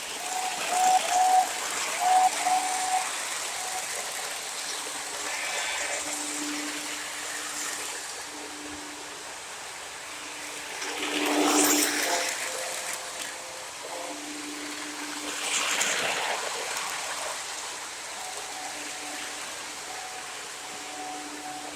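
O gauge model train running on its track: a steady rushing whir with faint held tones, swelling louder twice, about halfway through and again a few seconds later.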